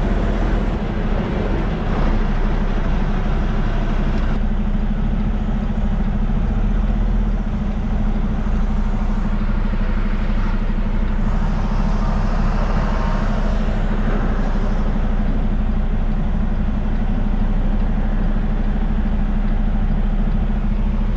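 Kenworth T680 semi truck's diesel engine running steadily at low speed while the truck is maneuvered into a loading dock.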